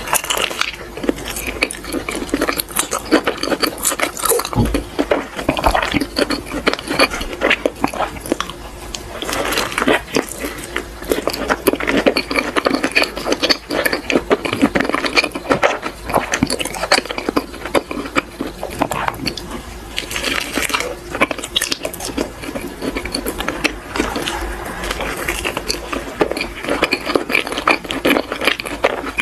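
Chewing and wet mouth sounds of someone eating soft cream-filled crepe rolls: bites, chewing and lip smacks in a steady run of small clicks.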